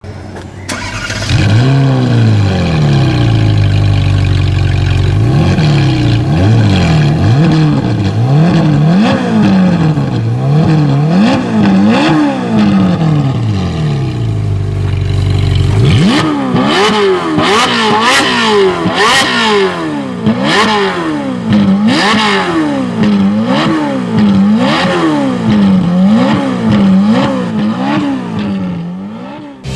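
Ferrari 458 Spider's V8 revved over and over through its exhaust, each blip rising and falling in pitch about once a second. About halfway through, the revs climb higher, with several sharp cracks from the exhaust.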